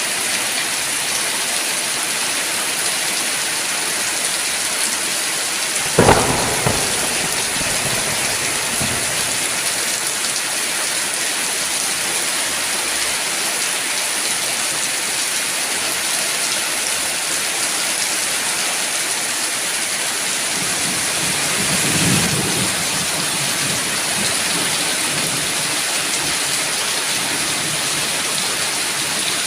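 Steady rain falling. A sharp clap of thunder comes about six seconds in, and a softer, lower roll of thunder comes later.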